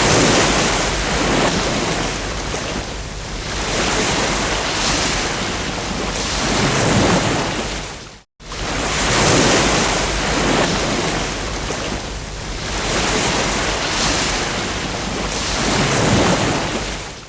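Ocean surf: waves breaking and washing in, a steady rush that swells and fades every few seconds. It cuts out to silence for a moment about halfway through.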